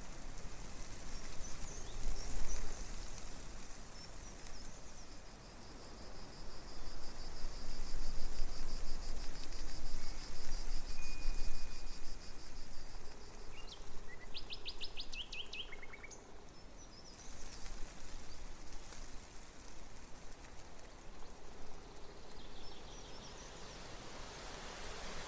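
Songbirds calling and singing, including a fast, high trill that runs for several seconds and a quick run of repeated chirps, over a steady outdoor background hiss.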